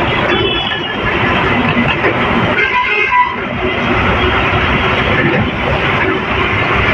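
Ashok Leyland truck driving on a highway, its engine and road noise steady, with a short horn about three seconds in.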